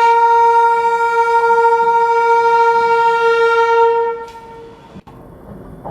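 Electric locomotive's horn, a WAG-12B's, sounding one long steady blast of about four seconds that then stops.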